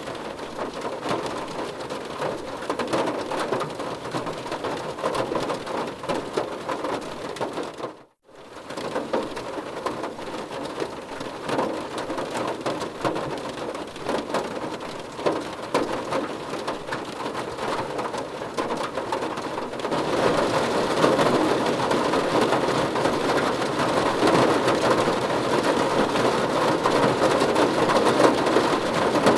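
Heavy rain falling steadily on a surface, a dense even patter. It cuts out for a split second about eight seconds in, then comes back, and grows louder about twenty seconds in.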